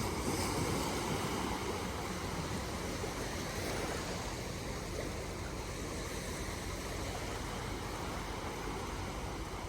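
Steady rush of sea waves washing on a shore, with wind.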